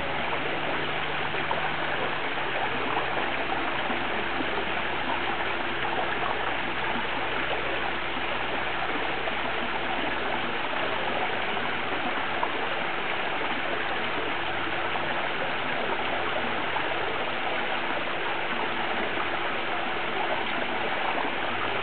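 Water from a rock waterfall pouring steadily into a swimming pool, a constant splashing rush.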